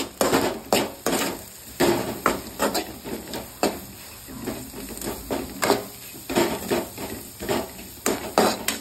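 A spoon or spatula scraping and knocking against a cooking pan while stirring a thick onion and spice mix fried in butter, in quick uneven strokes about two to three a second.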